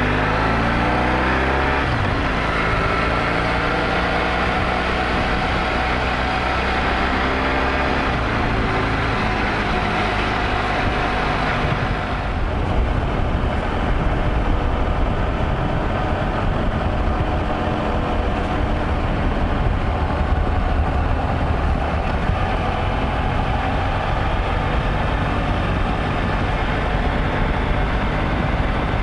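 Motorcycle engine running while riding. Its pitch rises through the first couple of seconds as it accelerates, then it settles into a steady cruise with road and wind noise. About twelve seconds in, the hiss thins and a deeper rumble takes over.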